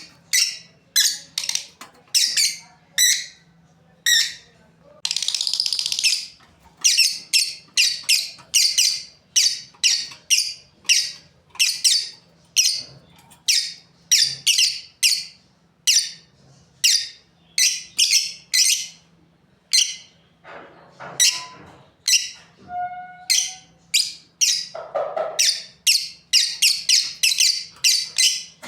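Lovebirds calling with short, sharp, high-pitched chirps, about two a second, and a longer harsh screech about five seconds in.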